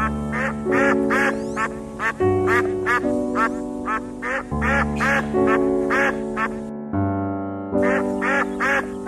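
Ducks quacking over and over, about two calls a second, with a pause of about a second near the end. Slow, sustained music plays underneath.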